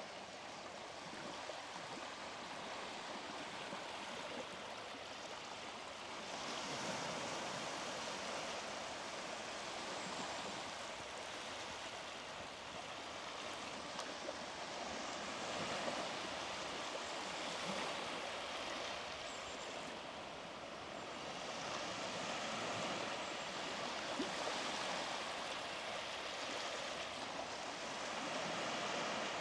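Small sea waves breaking and washing up the shore, the surf swelling and easing every several seconds.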